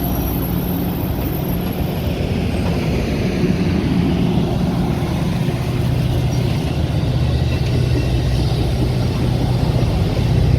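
Steady low rumble and hum of a Metra commuter train heard from inside the passenger coach.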